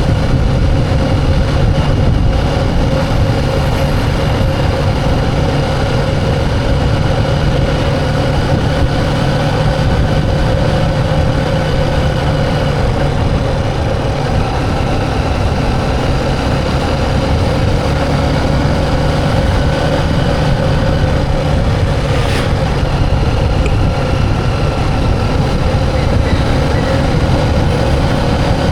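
Motorcycle engine running at a steady speed while riding, a continuous drone over a low rumble.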